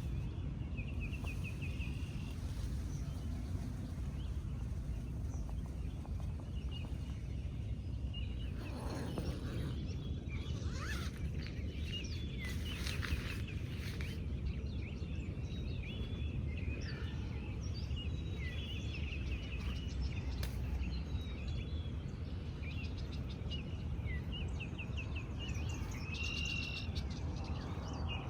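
Birds singing and chirping, many short calls and trills throughout, over a steady low rumble of background noise.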